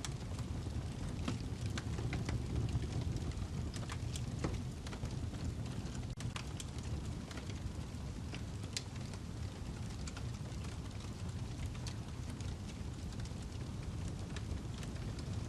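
Wood fire burning in a fireplace: a steady low rumble of flame with frequent sharp crackles and pops from the burning log.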